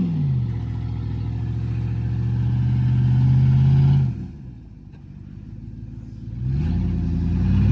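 Truck engine revving under load: the pitch dips right at the start, holds steady and builds until about four seconds in, then the engine eases off and goes quieter before revving back up near the end.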